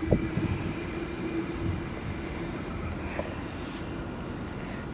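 Sydney Trains A set (Waratah) electric train pulling into the station, a steady rumble with a steady hum through the first few seconds.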